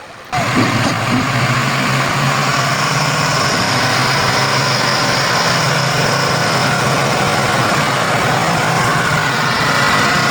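Diesel tractor engine running hard and steady, straining to pull a loaded sugarcane trolley out of a pit. The sound starts abruptly about a third of a second in.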